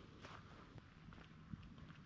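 Near silence with faint, scattered light ticks and taps.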